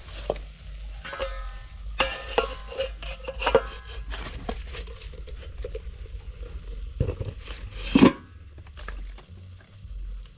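Cooking pots and utensils clattering and scraping in a run of short knocks, some ringing briefly, with one louder knock about eight seconds in.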